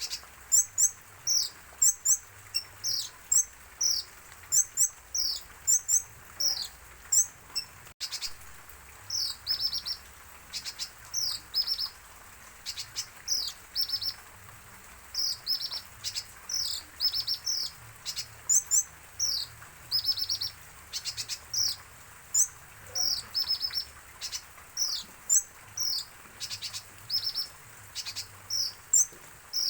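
A kolibri ninja sunbird singing: quick runs of high, sharp, downward-sliding chirps with short pauses between them.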